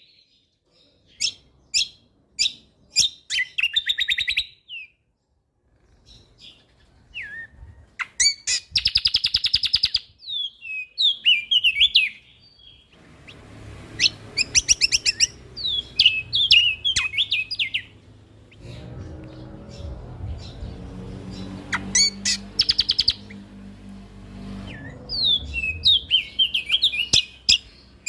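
Kecial kombok (cucak kombo) songbird singing in loud, rapid phrases of chattering trills and sharp chirps, with short pauses between phrases. A low steady hum runs under the song through the second half.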